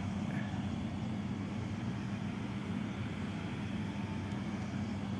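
Steady low hum over an even background haze, engine-like, with no distinct events.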